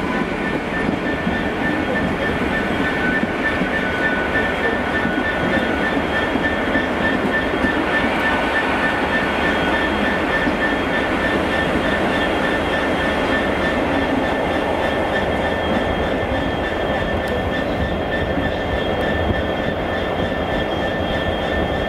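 GWR Hitachi intercity express train running slowly through the station, a steady rail rumble with a thin high whine.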